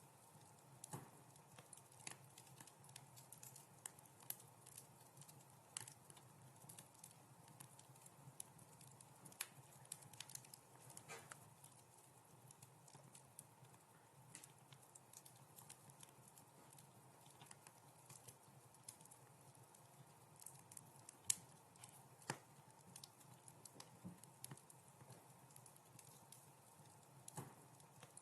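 Wood fire crackling softly in a fireplace: scattered, irregular pops and snaps over a faint low rumble, with two sharper snaps about three-quarters of the way through.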